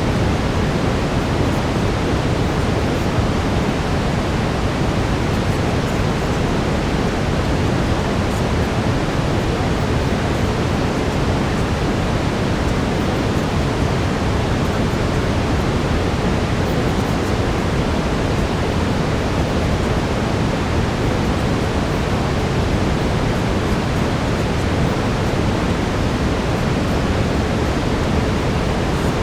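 Steady brown noise: an even, deep rushing hiss with no change or break, and a faint steady tone in it.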